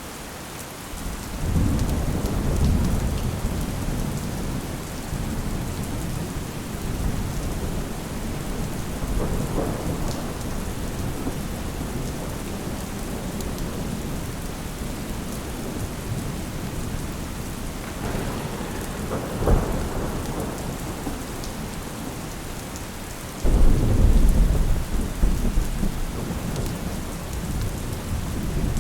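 Steady rain with rolling thunder. Low rumbles swell about a second and a half in, again around 9 and 18 seconds, and a sudden, louder thunder rumble breaks in near the end.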